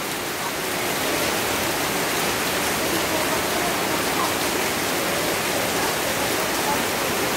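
Heavy rain pouring steadily onto a wet paved path and leafy shrubs, an even, unbroken hiss of drops.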